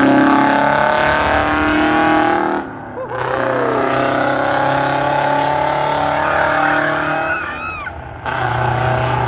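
Race truck engines running loud and steady on a drag strip. Two brief sudden drops in level come about three and eight seconds in, each with a short swooping change in pitch.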